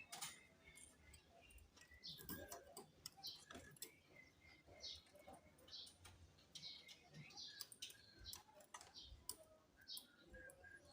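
Faint, scattered sharp clicks and light tapping, with faint short chirps in the background.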